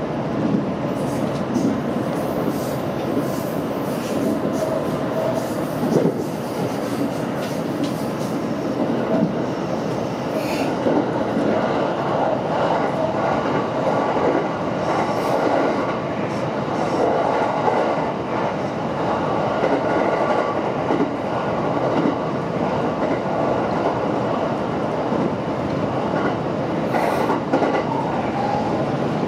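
Electric train running at speed, heard from inside the front cab: a steady rumble of wheels on rail with scattered clicks from the track.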